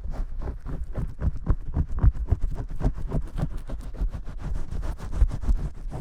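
Vigorous shampoo-style scrubbing close to the microphone: quick, muffled rubbing strokes, about six or seven a second, with a heavy low thump in each.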